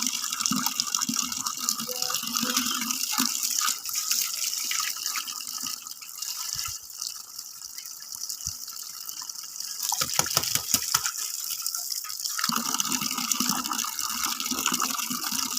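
Ducks and ducklings dabbling and splashing in water, a steady wet gurgling and sloshing that eases off midway, then a quick run of sharper splashes about ten seconds in.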